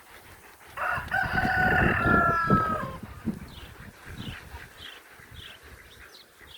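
A rooster crowing once, a pitched call of about two seconds that starts about a second in, followed by a run of short, faint, high chirps from small birds.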